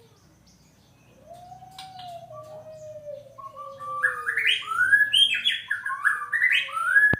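White-rumped shama singing: a long, low whistle sliding slowly down in pitch, then, about halfway through, a loud run of quick rising phrases.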